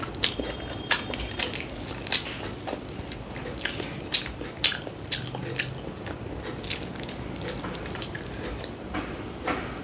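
Close-miked wet chewing, with irregular sharp mouth clicks and smacks while eating.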